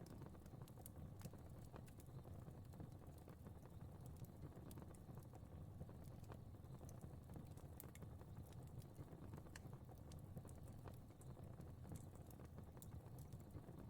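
Fire crackling faintly, with frequent irregular sharp pops and snaps over a low steady rumble of the flames.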